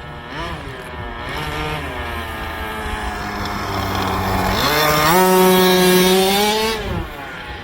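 Small RC truck engine revving. A couple of short blips come first, then it climbs over several seconds, steps up to a louder, higher held note past the middle, and drops off sharply near the end.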